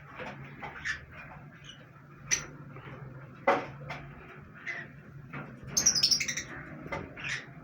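Pet cockatiels chirping in short, scattered calls, with a busier run of high chirps about six seconds in, over a low steady hum.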